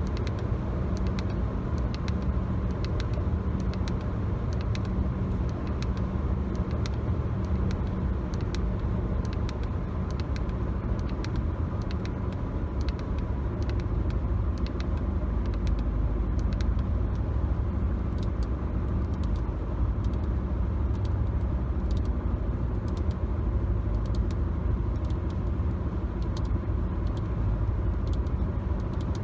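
Steady road and engine rumble inside a moving car's cabin, with frequent light taps and clicks from fingers tapping and scratching on the car's interior surfaces.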